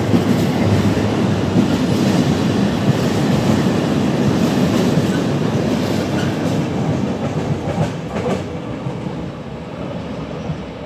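Combined-transport freight train, its wagons loaded with lorry semi-trailers, rolling past at speed. A few sharp knocks come about eight seconds in, as the end of the train passes, then the sound fades as it draws away.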